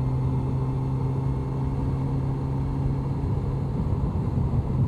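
Honda CBR1100XX Blackbird's inline-four engine running at a steady note while riding. About three seconds in, the steady note gives way to a rougher, uneven rumble.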